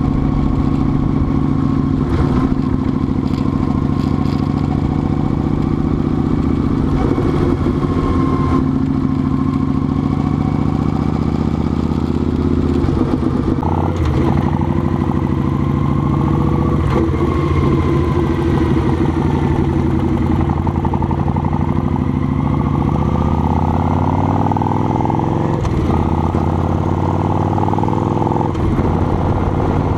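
Motorcycle engine running under way, heard close up from a helmet or bike-mounted camera, its pitch shifting up and down with the throttle, with a few rising sweeps near the end.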